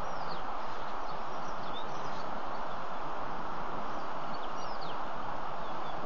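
A few short, high bird chirps, each falling in pitch, over a steady rushing background noise.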